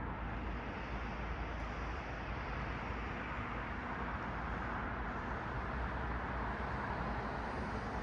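Road traffic: passing cars make a steady wash of tyre and engine noise that swells slightly a little after halfway.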